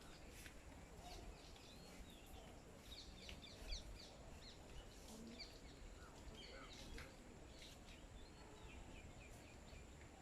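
Small birds chirping faintly in short, quick rising and falling chirps, busiest through the middle, with a few soft ticks and a steady faint high-pitched whine underneath.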